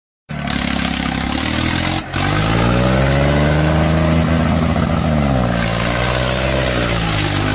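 Swaraj tractor's diesel engine running hard and revving. It dips briefly about two seconds in, climbs in pitch and holds, drops back a little after five seconds, then rises again near the end.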